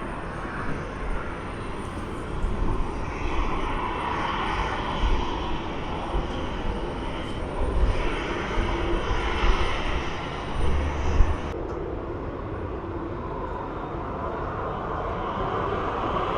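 Airliner engines running with a steady wide noise and a strong low rumble; the higher hiss drops away suddenly about two thirds of the way in.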